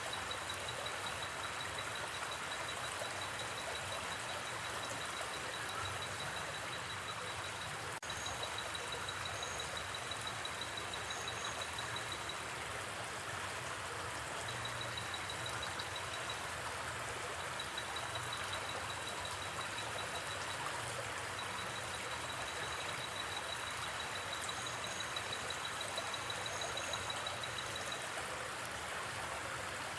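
A river flowing with a steady, even rush of water. Over it, a fast, high insect trill runs in long stretches with short gaps, with occasional paired higher chirps.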